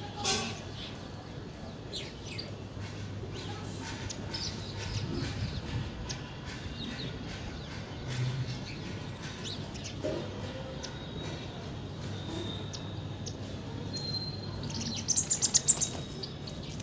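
Small birds chirping and calling on and off, with a quick run of loud, rapid chirps near the end.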